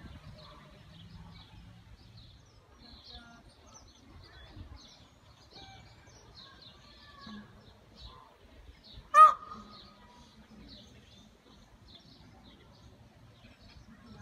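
Small birds chirping steadily at a zoo, with one loud, short call about nine seconds in.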